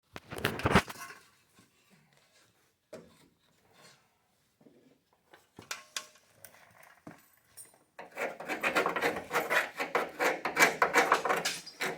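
Rapid back-and-forth rasping strokes, about five a second, starting about eight seconds in, like a file or sandpaper worked by hand on the truck cab. Before them come a short scrape at the start and a few scattered knocks and rubs.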